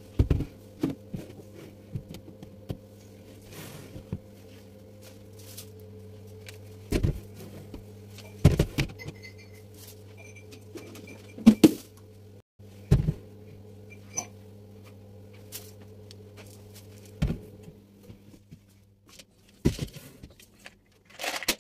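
Household objects being handled and set down, making scattered short knocks and clatter, over a steady low hum.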